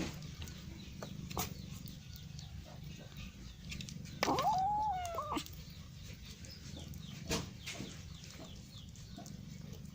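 A single animal call, about a second long, falling in pitch about four seconds in, over a steady low hum and scattered faint clicks.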